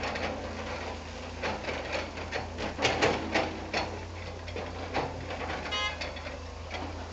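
Irregular knocking and clicking clatter over a steady low engine hum, with a brief squeak about six seconds in.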